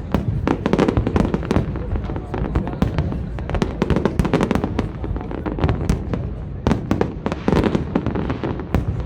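Large aerial fireworks display: rapid, irregular bangs and crackles, several a second, over a continuous low rumble.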